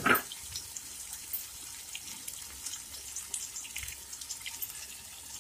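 Masala frying in oil in a pan, a steady sizzle dotted with small crackles and pops, with raw paneer cubes just added to it. One brief louder sound comes right at the start.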